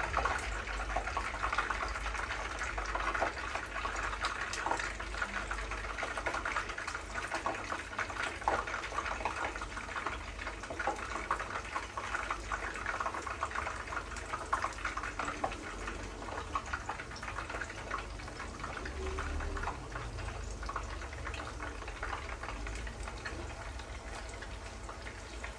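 Meatballs (köfte) frying in hot oil in a pan: a steady sizzle, thick with fine crackling, easing slightly over the stretch.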